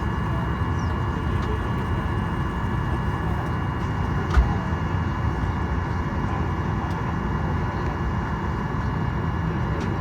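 Steady cabin noise inside a Boeing 737-800 on the ground, a low rumble with a faint steady whine over it. One brief knock about four and a half seconds in.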